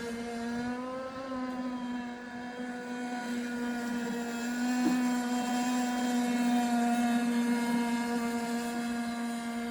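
Small gasoline engine of a model speedboat running steadily at a high, nearly constant pitch, a continuous drone with small rises in pitch.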